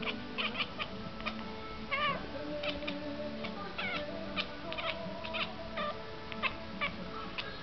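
Siamese kitten chattering at a fly: quick runs of short, sharp chirps, with a couple of longer wavering chirps about two and four seconds in. This is the prey-watching chatter a cat makes at something it wants to catch.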